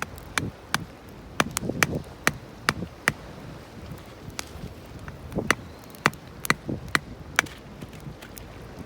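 A small Japanese nata hatchet is splitting thick, knotty firewood into smaller pieces. It makes repeated sharp knocking strikes in quick runs, with a lull in the middle.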